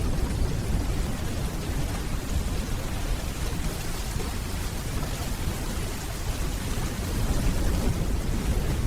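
Steady rainfall, with the deep low rumble of distant thunder rolling underneath and swelling slightly near the end.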